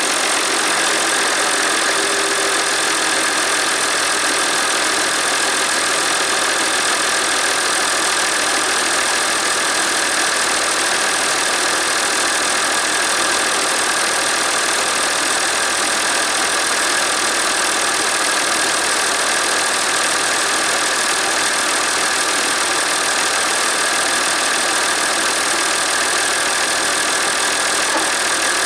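Massey Ferguson 1135 tractor's diesel engine running steadily at idle, with a steady whine in its sound.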